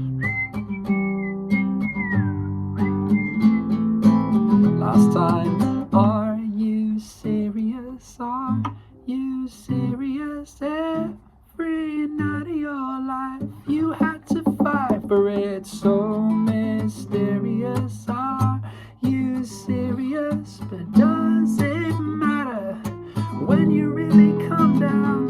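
Instrumental passage on strummed and picked acoustic guitar. A whistled melody carries on over the first few seconds.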